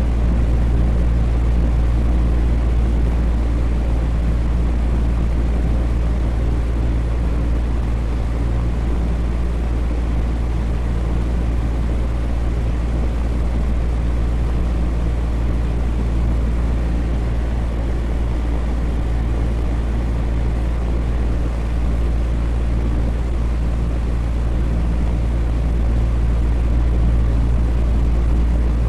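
Electric fan running steadily: a deep, even hum with a faint steady tone above it and a soft rush of air.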